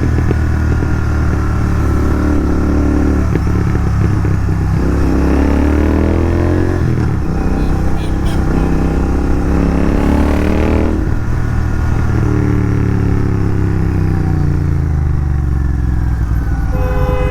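Royal Enfield Continental GT 650's parallel-twin engine running under way, its note climbing as it accelerates around the middle and then dropping after the throttle is closed a little past halfway.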